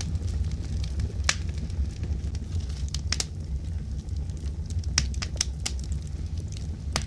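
Wood fire burning in a fireplace: a steady low rumble with irregular sharp crackles and pops, the loudest about a second in, around three seconds, around five seconds and near the end.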